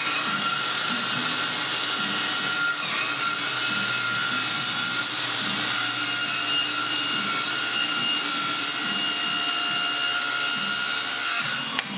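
A power tool running steadily while cutting wood, with a constant high whine over the rasp of the cut. It cuts off with a click near the end.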